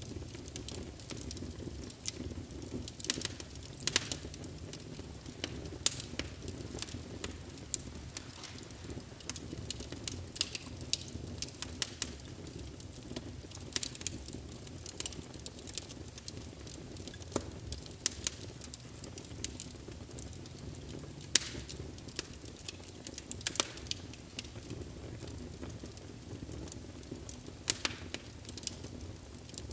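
Wood fire burning in a fireplace: a low steady rumble with frequent irregular crackles and pops from the burning logs.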